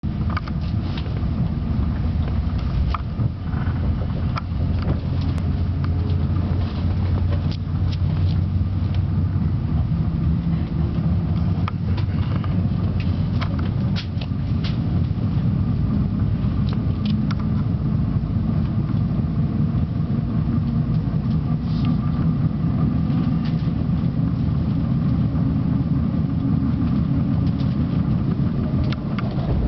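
Amtrak passenger train running at speed, heard inside the coach: a steady low rumble of wheels on rail with scattered sharp clicks and rattles.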